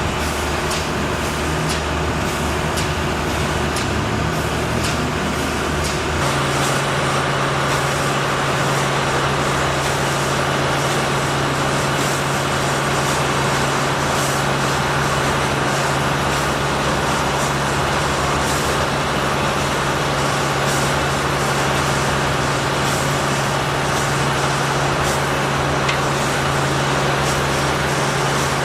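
Heavy engine running steadily amid dense street noise. About six seconds in, the engine's low rumble changes to a steady hum that holds to the end.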